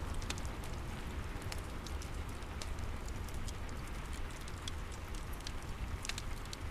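Steady rain with a low rumble, layered with the irregular snaps and pops of a crackling fireplace.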